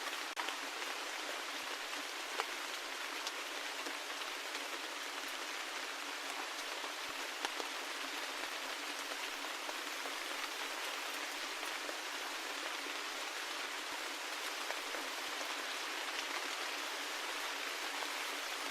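Steady rain: an even hiss of falling rain with individual drops ticking sharply now and then.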